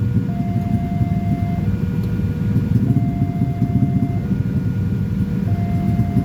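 Railway level-crossing warning alarm sounding an electronic two-tone signal: a higher and a lower tone alternating, each held about a second and a quarter. It sounds over a loud, steady low rumble.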